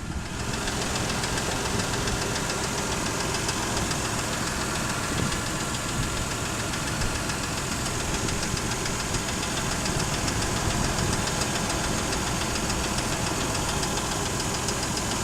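Toyota 5VZ-FE 3.4-litre V6 idling warm with a light, rapid, steady knock (a 'стучок') that comes only once the engine is hot; it runs smoothly when cold.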